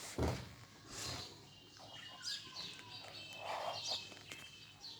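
Caged pet birds chirping in short, high calls, with a single knock just after the start.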